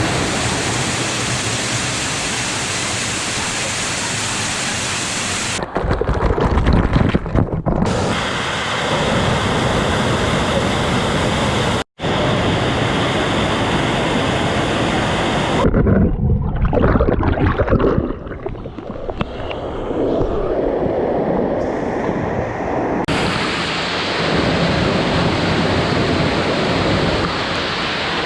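Waterfall running, a steady rush of falling water. It changes abruptly a few times between shots, with a brief dropout about halfway through and two short stretches of heavier low rumble.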